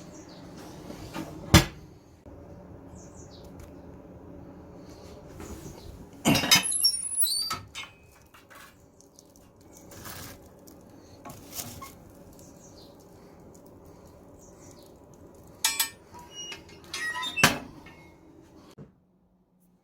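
Kitchen handling noises: a sharp knock about a second and a half in, a short clatter around six to seven seconds, and more knocks and clatter near the end, over a low steady hum.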